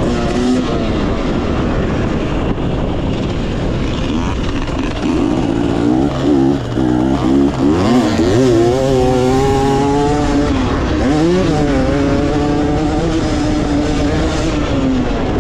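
Two-stroke 250 dirt bike engine (a stock 2018 Yamaha YZ250X) being ridden hard on a motocross track, its pitch climbing and dropping as the throttle is rolled on and off through the jumps and corners, with sharp revs about eight and eleven seconds in.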